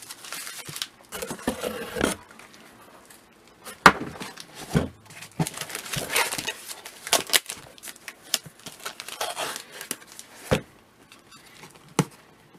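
Packaging rustling and crinkling as a shipping box of comics is unpacked by hand, with scattered light knocks and clicks as items are moved.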